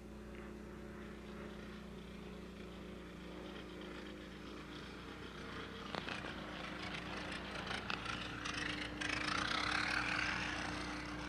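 Piston-engine light airplane running at an air show, its engine sound growing louder from about halfway and loudest near the end as it comes past.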